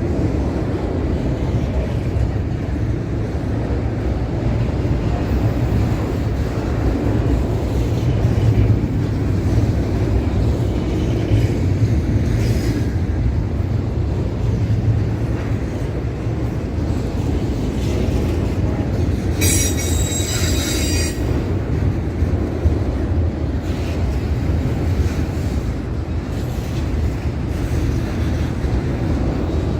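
Train rolling past with a steady low rumble of wheels on rail. About twenty seconds in, the wheels give a brief high-pitched squeal, with fainter squeal tones around twelve seconds in.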